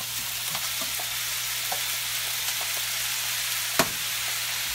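Stir-fry sizzling steadily in a hot wok, with scattered light clicks and taps and one sharper knock near the end.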